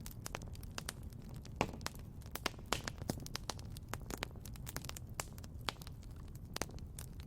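Wood fire crackling: irregular sharp pops and snaps over a steady low rumble of the flames, with louder pops about one and a half seconds in and near three seconds.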